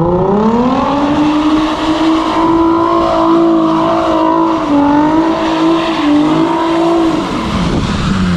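Nissan 350Z's 3.5-litre V6 revving hard during a drift attempt: the revs climb in the first second, hold high with small dips as the throttle is worked, then drop back near the end. Heard from inside the cabin.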